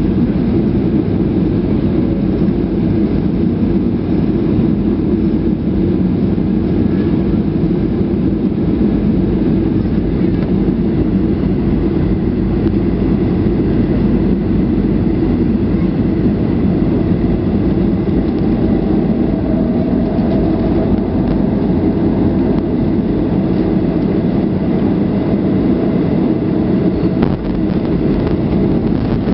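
Steady roar inside the cabin of a Boeing 737-400 airliner: its CFM56 engines and the airflow over the fuselage. A faint higher hum comes in past the middle.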